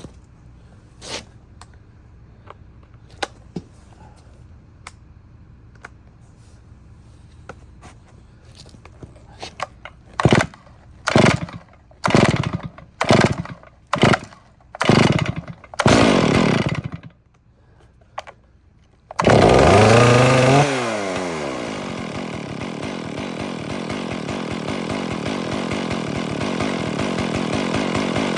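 Stihl MS461 two-stroke chainsaw cold start: faint clicks, then about seven loud pulls on the starter cord before the engine catches, runs fast for a second, drops in pitch and settles into a steady idle.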